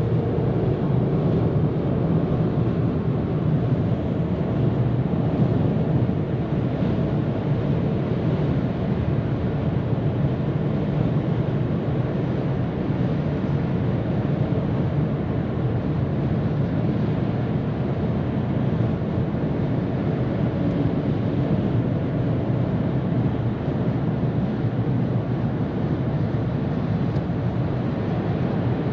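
Steady highway-speed running noise of a 2022 Ford Maverick pickup: a constant low road and tyre rumble with wind noise over it, even throughout with no sudden sounds.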